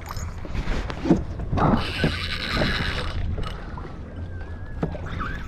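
Water sloshing and splashing against a kayak hull over a steady low wind rumble on the microphone, with a louder hissing rush about two seconds in.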